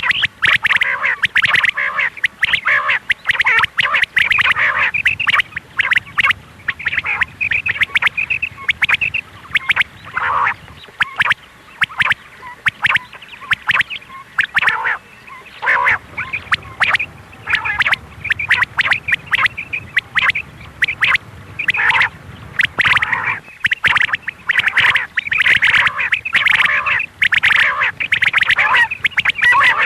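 Quail calling in a rapid, harsh, almost unbroken run of calls, thinning briefly twice partway through.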